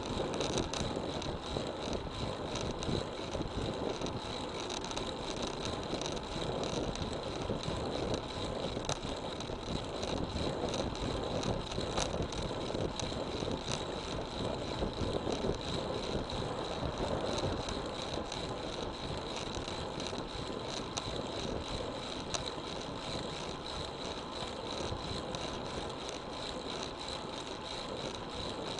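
Steady rushing noise of a road bike in motion: wind on the action camera's microphone over tyre hum, with a thin, high, steady whine on top.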